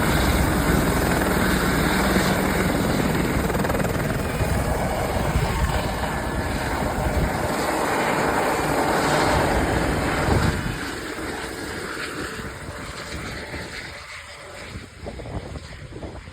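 Airbus H120 single-engine helicopter departing: its turbine and rotor noise is loud at first, drops sharply about ten seconds in, then fades away.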